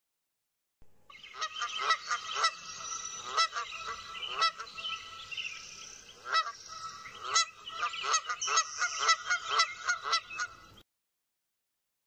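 Geese honking, many calls close together and overlapping, starting about a second in and cutting off abruptly near the end.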